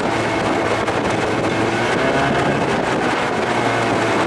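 Evinrude 25–30 hp two-stroke outboard running steadily under way, with wind buffeting the microphone.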